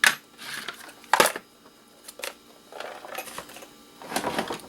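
Pieces of scrap electronics being handled and sorted on a work surface: three sharp knocks of parts set or dropped down, with short bouts of scraping and rattling in between.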